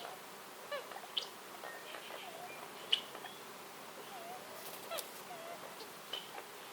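Woodland birds calling: scattered short chirps and squeaky, wavering notes from several birds over a soft steady hiss of background ambience. The sharpest chirp comes about three seconds in.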